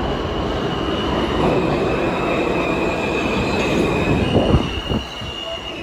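New York City subway train moving through the station, with a rumble of wheels and a steady high squeal from the steel wheels on the rails. The rumble eases off about five seconds in.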